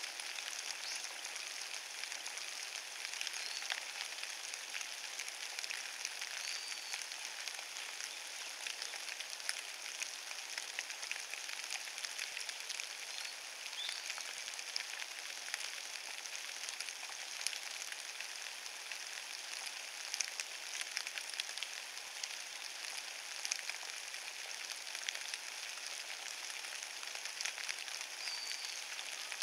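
Steady rain falling on a carpet of fallen leaves: a dense, even patter of countless small drop ticks that never lets up.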